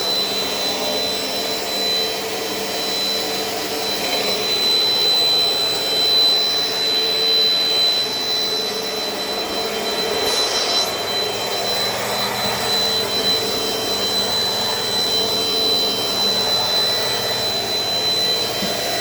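Dirt Devil Dynamite Plus vacuum cleaner running steadily while vacuuming the floor, its motor giving a constant high whine. A brief hiss about halfway through.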